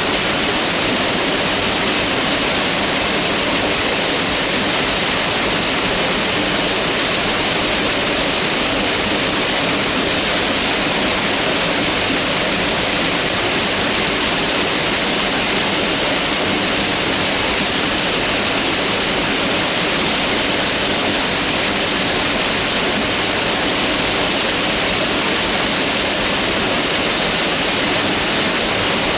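Mountain river rushing steadily over rocks, a constant hiss of whitewater.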